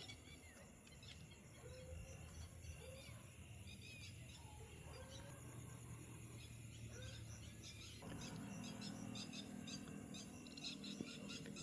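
Faint night-time bird calls: short rising chirps every second or so, then a quicker run of high chirps in the second half.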